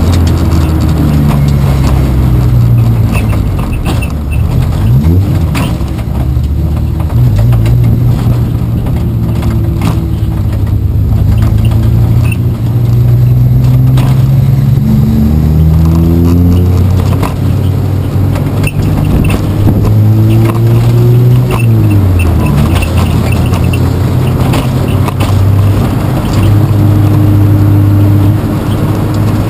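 Race car engine running hard, its note falling, holding, then climbing before a sharp drop about two-thirds of the way through, then steady again, with scattered clicks and rattles throughout.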